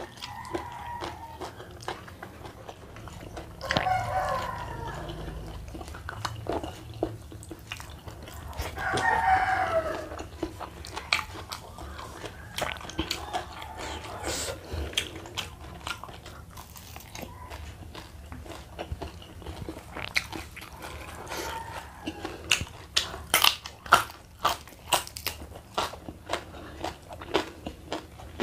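Close-miked eating sounds: chewing, smacking and crunching mouthfuls of a meal eaten by hand, with a quicker run of sharp crunches near the end. Two longer drawn-out calls sound in the background, the first about four seconds in and the second about nine seconds in.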